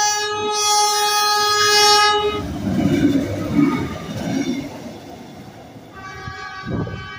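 Stadler GTW diesel light-rail train sounding a long, loud horn blast as it approaches, then rumbling past close by with the noise of its wheels and engine, which fades as it moves off. A fainter horn note begins about six seconds in.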